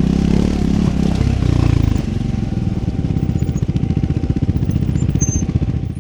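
Triumph Scrambler 400 X's single-cylinder engine running, then settling to an even, pulsing idle about two seconds in.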